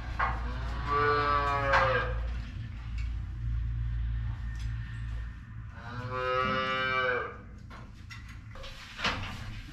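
A cow in labour moos twice, each call about a second and a half long and the second about five seconds after the first, while a backwards calf is being pulled from her. A low steady hum underneath stops about halfway through, and a sharp knock comes near the end.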